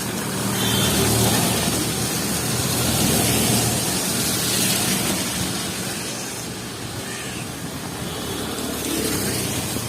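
Heavy rain hissing on a city street, with a vehicle's engine running close by, loudest in the first few seconds and fading after.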